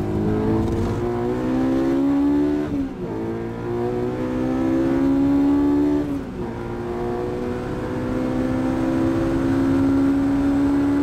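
Honda S2000 AP1's F20C 2.0-litre four-cylinder, fitted with Toda high-lift cams, heard from inside the cabin accelerating hard at full throttle. Its pitch climbs, drops at an upshift about three seconds in and again at about six seconds, then climbs again.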